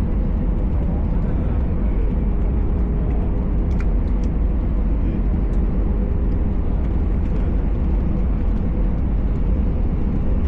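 Airbus A320 cabin noise heard from a passenger seat: a steady, loud rumble of engines and airflow with a steady whine tone running through it.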